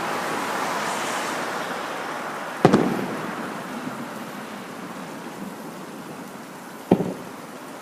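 Aerial firework shells bursting: a doubled bang about two and a half seconds in and another single bang near the end, over a hiss that slowly fades.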